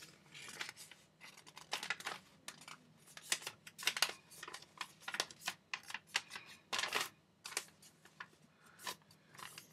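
A sheet of printer paper being folded and creased by hand: irregular crinkles and rustles, some short and some longer.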